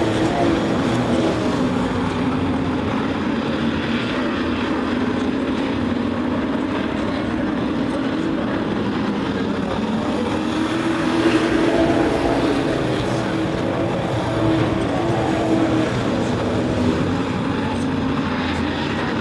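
Engines of a field of sport-class racing trucks running at speed in a race, a steady drone that swells briefly about eleven seconds in.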